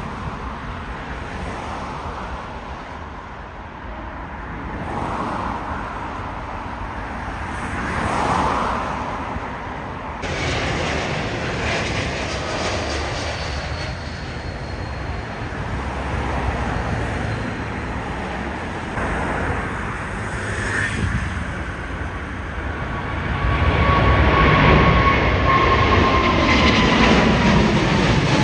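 Jet airliner engines passing: a steady rumble with a high whine, growing louder in the last few seconds as the whine slowly falls in pitch.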